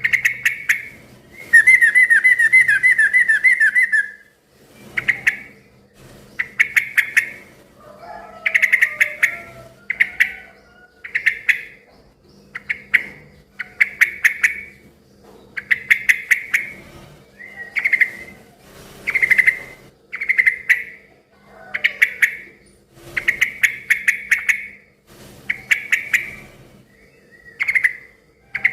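Yellow-vented bulbul (trucukan) singing over and over in short bubbly phrases about once a second. A louder, quicker chattering run of falling notes comes between about one and four seconds in. A faint steady hum lies underneath.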